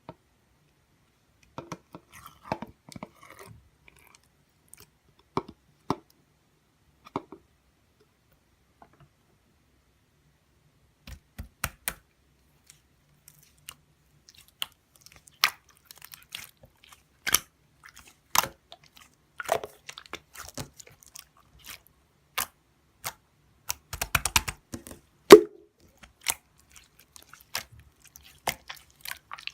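Glitter slime being handled, making sharp sticky pops and crackles with short silences between them. They come only now and then at first and much more often from about a third of the way in.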